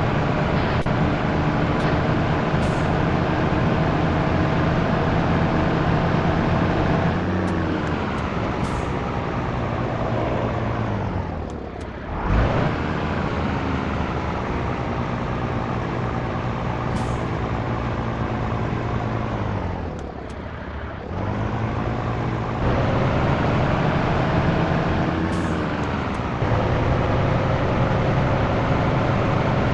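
Scania T113 truck's diesel engine pulling on the road, its note climbing slowly, sagging twice for a few seconds and picking up again. A short dull thump comes about twelve seconds in.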